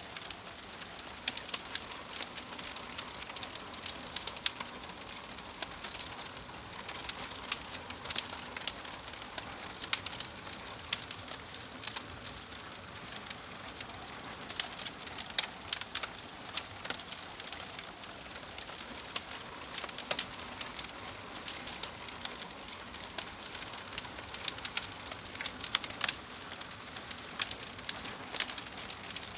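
Fire crackling: irregular sharp pops and snaps over a steady soft hiss.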